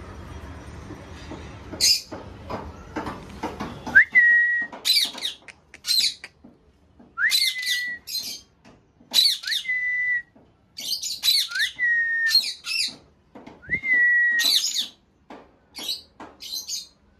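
Pet parrots calling: harsh, rapid squawks and chatter with a clear whistle, repeated about five times, that slides up and then holds. A low steady hum underlies the first few seconds and stops abruptly about four seconds in.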